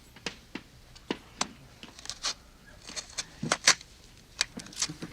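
A series of sharp clicks and knocks at irregular intervals, a dozen or so, the loudest clustered a little past the middle.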